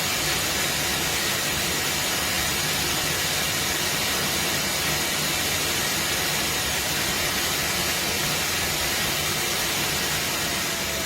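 Suction motor of a eufy Omni C20 robot vacuum system running steadily, a loud even rushing hiss with a faint whine, which begins to wind down in pitch at the very end.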